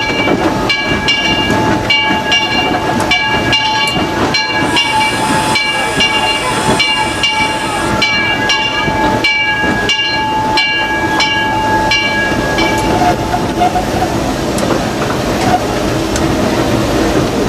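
Disneyland Railroad steam locomotive No. 4 heard from its cab while running, with steam hiss. A rhythmic metallic ringing, about two strokes a second, and a steady tone both stop about 13 seconds in, and the locomotive's running noise goes on.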